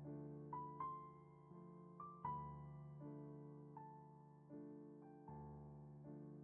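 Slow, soft piano music: single notes and chords struck gently about once a second and left to ring and fade.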